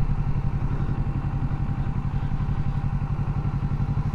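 Motorcycle engine running steadily at low revs with an even pulsing beat.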